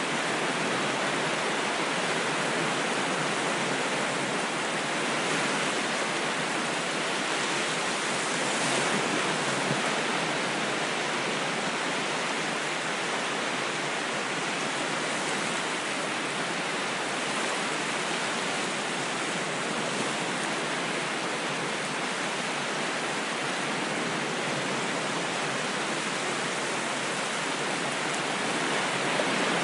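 Ocean waves on a shore: a steady hiss of surf, swelling slightly about a third of the way in and again near the end.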